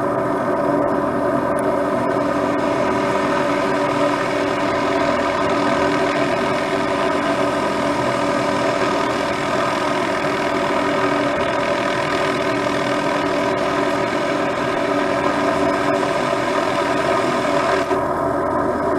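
MD500 turbine helicopter running steadily, likely hovering at the lines: an even engine and rotor sound made of several held tones over a hiss. The upper hiss drops away near the end.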